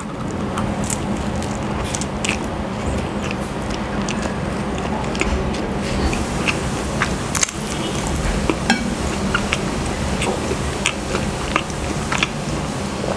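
Close-miked eating: a bite into a soft pandesal bread roll topped with pancit canton noodles, then steady chewing with many sharp wet mouth clicks and smacks.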